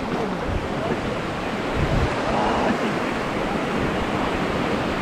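Steady rush of river water flowing around a rafting boat.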